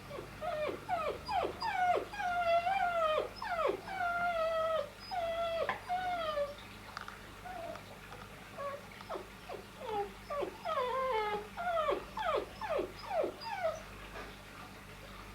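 Puppy whining: a run of short falling whimpers mixed with longer held whines, in two bouts with a pause of about two seconds between them.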